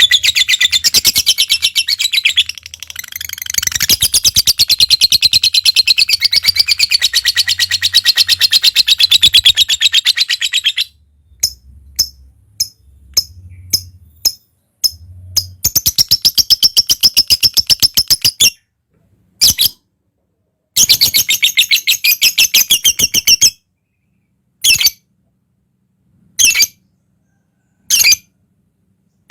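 Lovebird chattering in a long, loud, very rapid trill (the 'ngekek' song) for about ten seconds, then breaking off into faint scattered clicks, two shorter bursts of chatter, and a few single short calls a second or two apart near the end.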